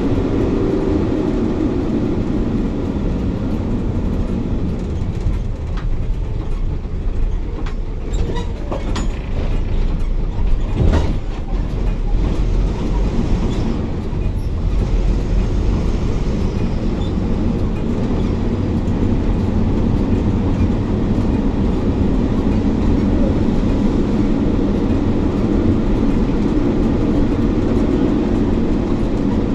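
Bus cabin noise while the bus is moving: a steady engine hum and road rumble whose pitch drifts slowly. Body rattles clatter now and then, and a sharp knock comes about eleven seconds in.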